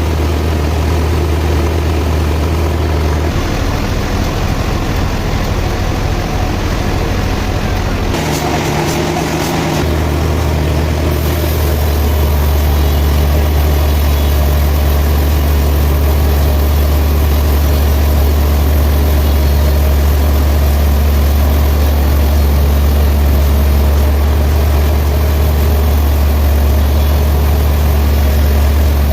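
Heavy sawmill machinery running with a steady low hum. The sound shifts a few times and turns louder and hissier from about eleven seconds in.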